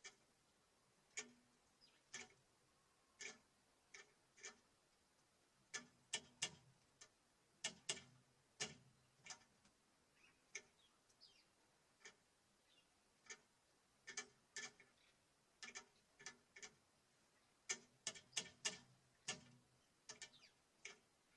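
Small birds pecking seed at a wooden bird feeder: irregular sharp beak taps, sometimes in quick clusters, with a few faint chirps.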